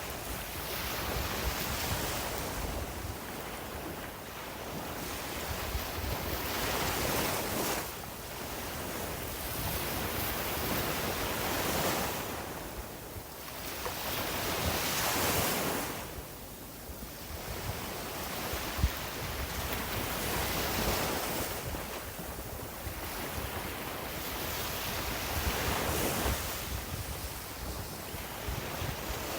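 Sea waves breaking and washing up a beach, the surf swelling and easing every few seconds. A single short sharp tap stands out about nineteen seconds in.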